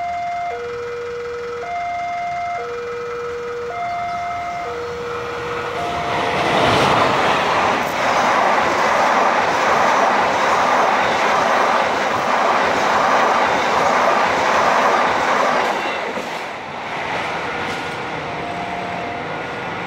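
A level-crossing warning alarm sounds two alternating tones, high and low, about once a second. About six seconds in, the KA Argo Wilis express passenger train passes at speed, its wheels and coaches rushing by loudly for about ten seconds. The two-tone alarm is heard again near the end.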